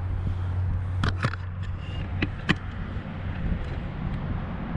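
A garden tractor's small engine running steadily, growing fainter after about a second, with a few sharp clicks and knocks.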